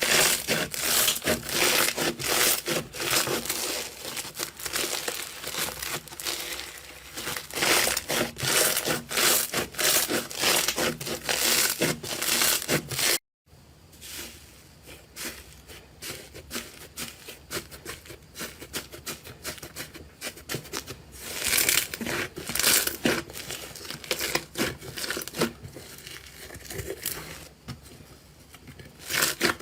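Slime being squeezed and worked by hand, with dense crackling and popping clicks. The sound cuts out briefly about thirteen seconds in and comes back a little quieter.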